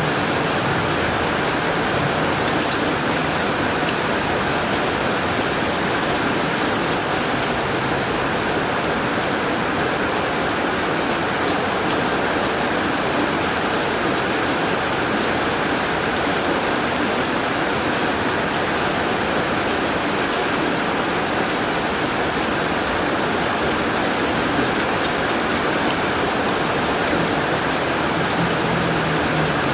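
Steady heavy rain drumming on a tin roof, a dense even hiss scattered with the sharp ticks of single drops.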